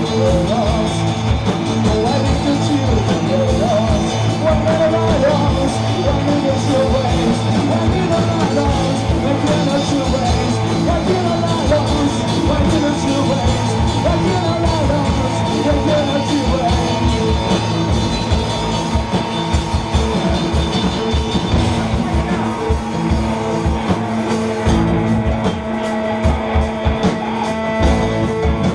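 Live rock band playing a loose, droning improvised jam: drums, basses and electric guitars over a steady low drone, with a wavering lead line above them in the first half.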